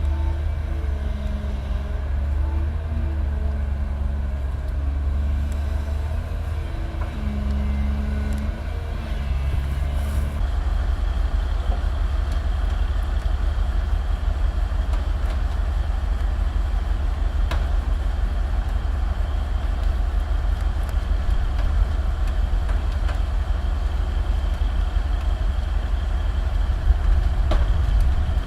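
Heavy diesel engines running hard under load, a deep steady rumble, as recovery trucks pull a mired 35-ton excavator. About ten seconds in the sound changes: a pitched engine note drops away and a rougher, fuller noise takes over.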